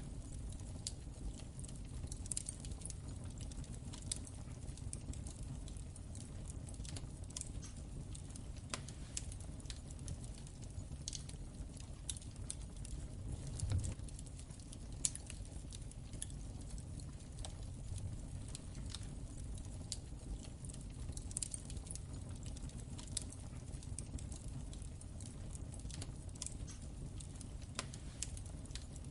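Wood fire crackling in a fireplace: irregular sharp crackles and pops over a steady low rumble of the flames, with one louder pop about halfway through.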